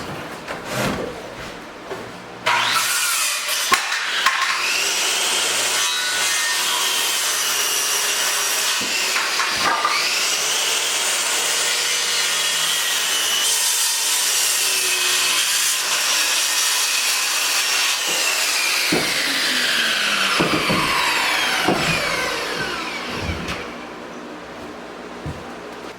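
Electric power saw cutting wood: it starts abruptly a couple of seconds in after a few knocks, runs for about twenty seconds with its whine sagging and recovering once, then spins down with a falling whine.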